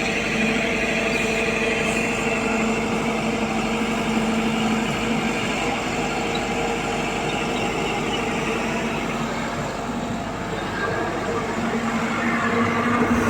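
Heavy diesel engine of earth-moving machinery running steadily with a continuous hum, easing a little then picking up again near the end.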